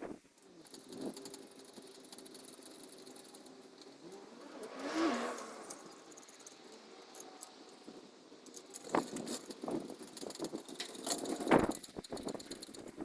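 A vehicle passes about five seconds in. Near the end comes a run of irregular metallic rattling and knocks.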